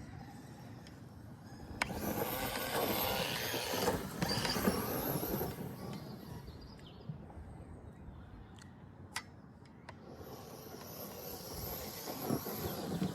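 Arrma Kraton 4S brushless RC monster truck running across grass, its motor and tyres whirring in two louder surges with a few sharp clicks in between.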